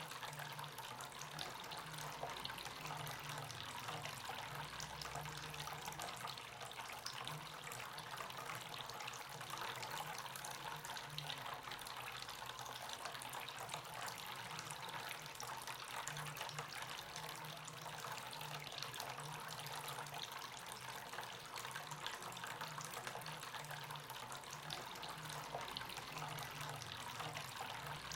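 Water steadily trickling and splashing in a small homemade cement fountain, circulated by a submersible pump.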